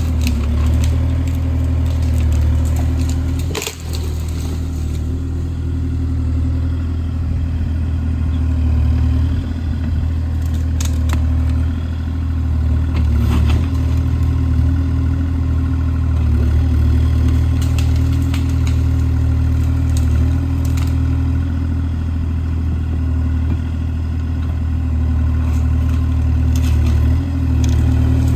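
Kubota KX040 mini excavator's diesel engine running steadily under light load, with a few sharp knocks and cracks along the way.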